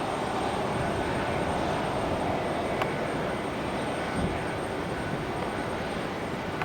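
Jet engines of a FedEx Boeing 767 on landing, a steady rushing jet noise, with a brief low thump about four seconds in.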